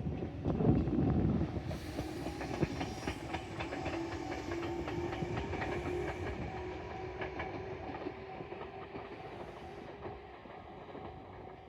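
Tobu Isesaki Line electric train running on the track, its wheels clicking rapidly over rail joints under a steady motor hum, gradually fading as it moves away.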